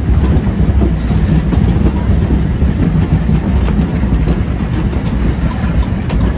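Narrow-gauge train running, heard from an open-sided carriage: a steady, loud rumble of wheels on the rails with a few faint clicks from the track.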